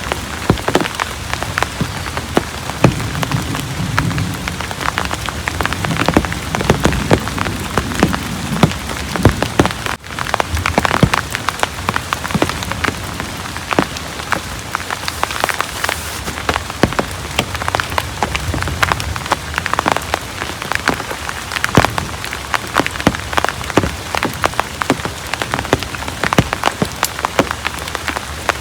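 Heavy rain falling steadily, with a dense run of sharp drop hits close by.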